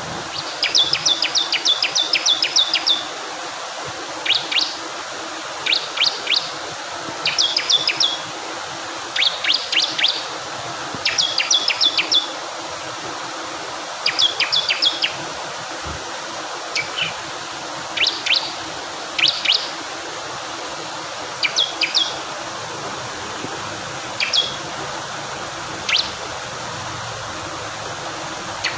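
Bar-winged prinia (ciblek kristal) singing bursts of rapid, sharp high chirps, a group every second or two, over a steady rush of flowing water.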